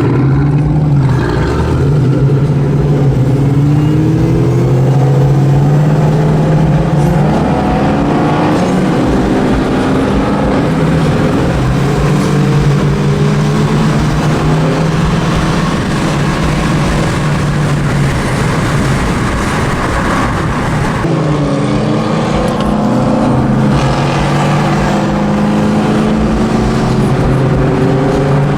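Car engine running loudly, its revs rising and falling several times.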